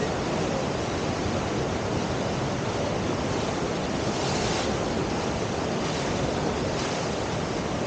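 Steady rush of river water pouring through a standing river surf wave, with a brief brighter hiss a little past four seconds in.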